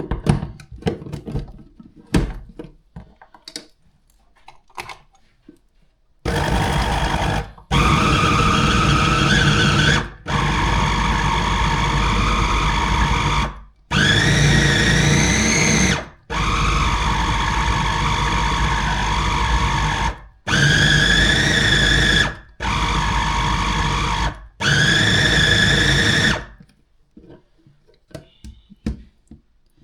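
Electric kitchen grinder's motor whining as it minces chicken with onion and garlic, run in about eight spells of two to four seconds with short breaks, its pitch rising as each spell starts. Clicks and handling sounds come before the first run.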